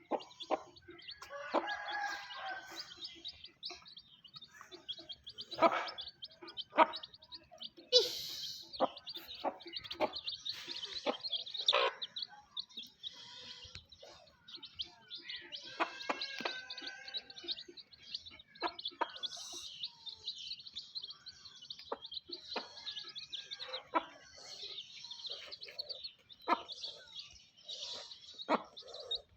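A brood of chicks peeping continuously and high-pitched, with a hen clucking now and then among them.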